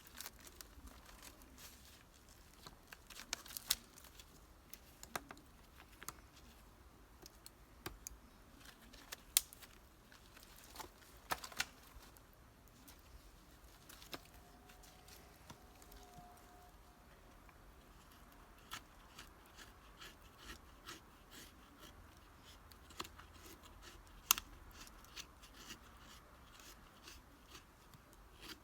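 A knife shaving resinous fatwood: faint scraping strokes and irregular sharp ticks and snaps as thin slivers come away.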